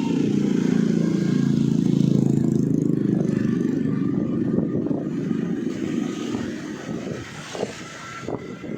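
Wind rumbling on the microphone while riding along a road, with the vehicle's running noise underneath. It is loudest for about the first three seconds and then eases somewhat.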